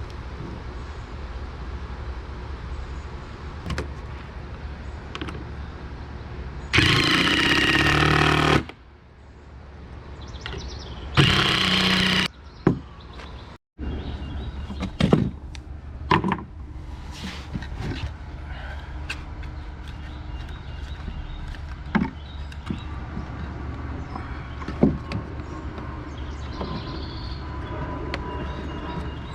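A power tool running in two short bursts, the first about two seconds long and the second about one, amid scattered knocks and taps of work on wooden deck boards over a steady low hum.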